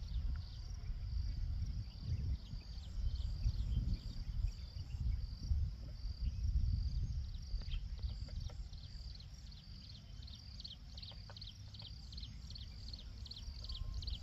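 High-pitched insect chirping: a steady trill with short repeated chirps, about two or three a second in the second half, over a low uneven rumble.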